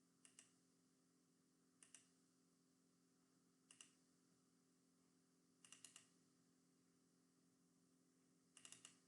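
Faint clicking of computer keys, in short groups of two to four clicks every couple of seconds, over a faint steady hum.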